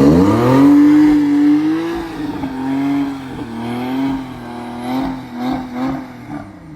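Porsche 911 Carrera T's twin-turbo flat-six engine revving up quickly, then holding a steady note that wavers slightly and fades away near the end.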